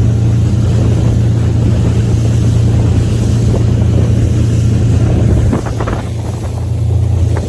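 Motorboat running at speed on the lake: a steady, loud engine hum under a rush of wind and water, with wind buffeting the microphone. The sound eases off slightly about five and a half seconds in.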